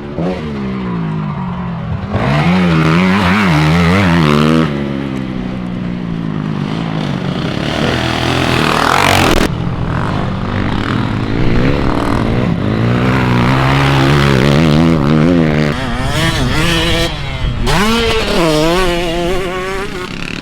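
Husqvarna 125 TC two-stroke motocross bike being ridden hard, its engine pitch climbing and dropping over and over as the throttle is opened and shut through the gears.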